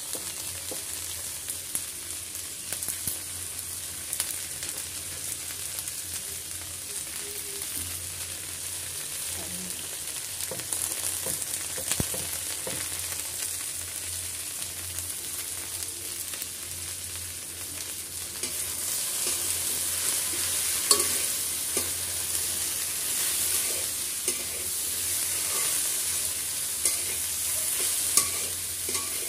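Chopped okra and onion sizzling as they fry in oil in a pan, stirred with a spatula that clicks against the pan now and then. The sizzle grows louder about two-thirds of the way through.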